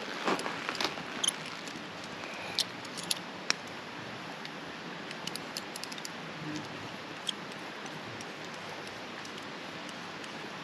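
Scattered light clicks and taps of small objects being handled, most of them in the first few seconds, over a steady background hiss.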